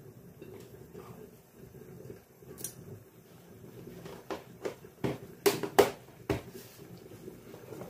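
Hard objects knocking and clattering: a quick run of about six sharp knocks a little past the middle, over a low steady background hum.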